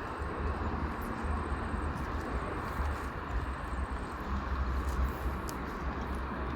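Steady traffic noise from a toll road, a continuous low rumble with a wash of tyre noise.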